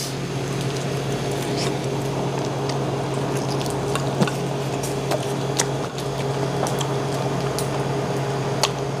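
Close-miked chewing: wet, squishy mouth sounds with scattered small clicks, over a steady low hum.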